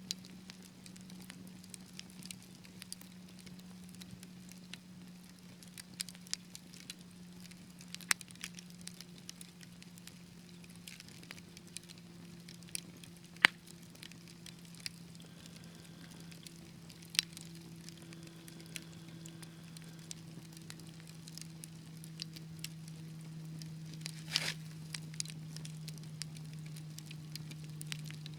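Wood fire in a fireplace crackling, with scattered sharp pops, the loudest about halfway through and a quick cluster near the end. Underneath runs a steady low hum that slowly sinks in pitch.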